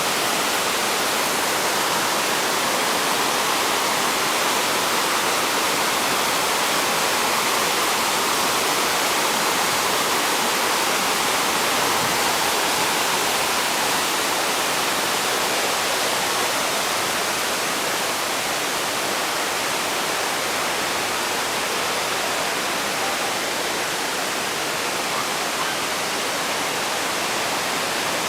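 Ryuzu Falls, a cascading waterfall, with water rushing steadily and evenly.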